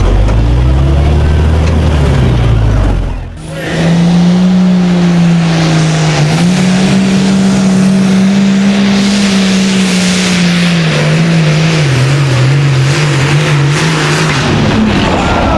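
Loud engine of a pulling tractor running hard under load. The sound cuts out briefly about three seconds in, then a strong, steady engine note holds pitch for most of the rest, wavering slightly near the end.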